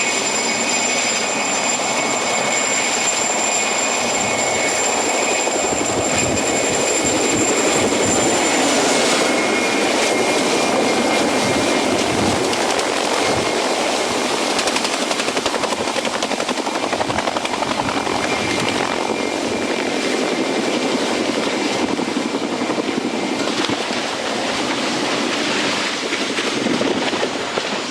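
Helicopter running: a steady, loud rotor and engine noise, with a thin high whine over it that stops about nine seconds in.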